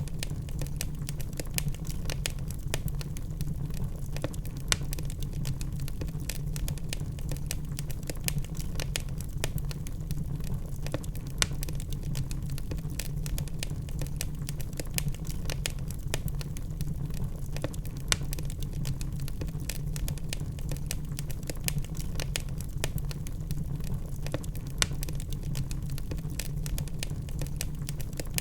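Burning logs in a fireplace crackling: a dense run of small sharp pops and ticks over a steady low rumble, with a few louder pops now and then.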